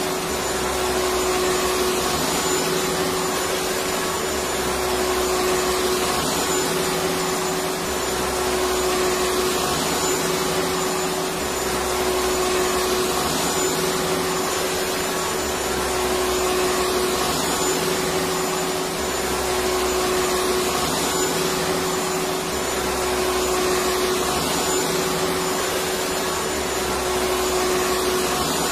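Electric vacuum cleaner running steadily: a dense whooshing rush with a constant whine, over a low hum that swells and fades about every four seconds.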